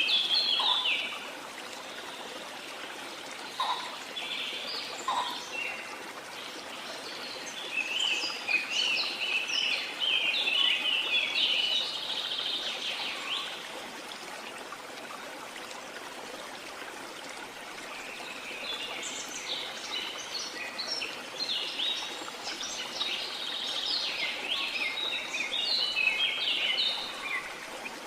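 Rainforest ambience: birds singing in quick, chirping phrases over a steady hiss of water. The birdsong comes in two long spells, one in the first half and one in the second half, with calmer stretches of water sound between them.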